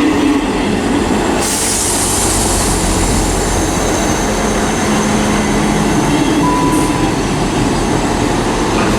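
Class 158 diesel multiple unit pulling into the platform: steady diesel engine and rail noise, with a high hiss setting in about a second and a half in.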